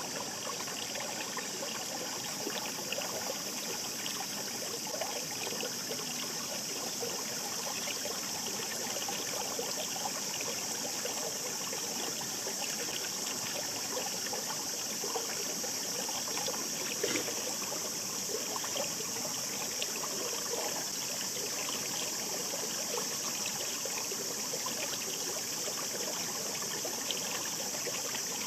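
A mountain stream burbling and trickling over rocks, a steady rush with many small splashes.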